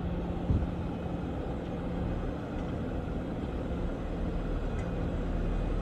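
Off-road vehicle engine running steadily, with one low thump about half a second in.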